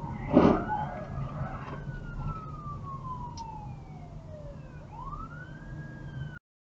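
Emergency vehicle siren wailing, its pitch sweeping slowly down and then rising again, over steady engine and road noise. A loud impact bang hits about half a second in, and the sound cuts off suddenly near the end.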